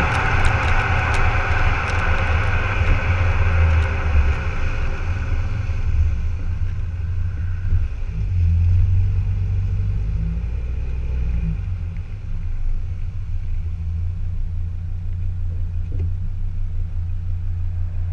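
Volvo XC60 D5's five-cylinder turbodiesel running through a custom exhaust, a deep steady rumble. It swells for a few seconds in the middle before settling back, while a higher hiss fades out over the first few seconds.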